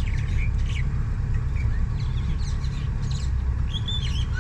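Steady low rumble of a tour boat's engine, with scattered bird chirps over it; near the end a bird starts a run of repeated arching calls.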